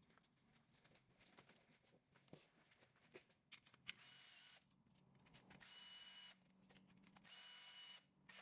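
Faint, short whirs of a small cordless power tool spinning out the 8 mm sump bolts, three bursts of under a second each in the second half, with a few light clicks before them.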